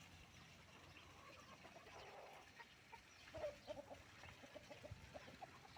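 Hens clucking faintly, a quick run of short clucks beginning a little past halfway.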